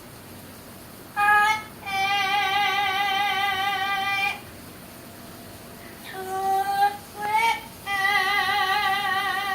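Parrot singing in a human-like voice: a short note about a second in, a long held note with a wavering vibrato, then two short notes and another long vibrato note near the end.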